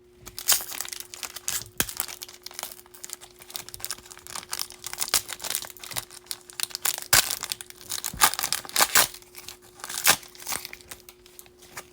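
A foil wrapper of a Bowman baseball card pack being torn open and crinkled: irregular crackling throughout, loudest about two-thirds of the way in, over a faint steady hum.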